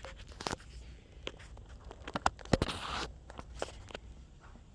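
Sharp clicks and knocks of cat treats and a dish being handled in a cat's cage, with a louder clatter a little past halfway followed by a brief rustle.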